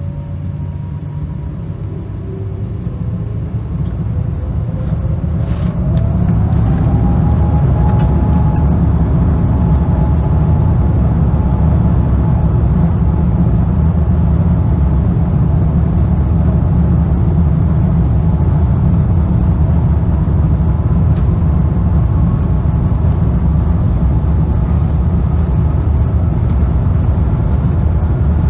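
Airbus A350's Rolls-Royce Trent XWB engines spooling up to takeoff thrust, heard from inside the cabin. A whine rises in pitch and the sound grows louder over the first several seconds, then settles into a steady rumble of the takeoff roll while the engine tone keeps climbing slowly.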